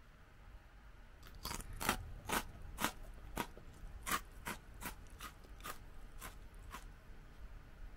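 A person chewing Iwatsuka Seika salt-and-lemon fried rice crackers: a run of about a dozen crisp crunches, roughly two a second, starting about a second in and growing fainter toward the end.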